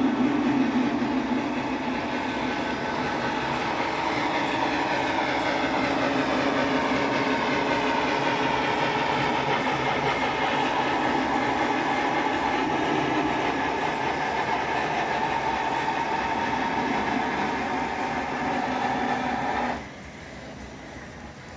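Steam locomotive sounds from the TCS WOW sound decoder in an HO-scale 2-6-6-2 model locomotive, running steadily as the model travels the layout, then cutting off suddenly near the end.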